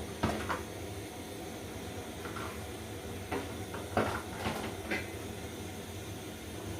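Cooking pots and utensils being handled: several short knocks and clatters, the loudest about four seconds in, over a steady low hiss.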